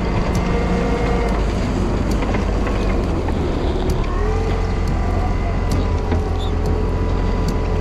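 Volvo wheel loader's diesel engine running steadily, a constant low rumble with higher whines that drift up and down in pitch over it.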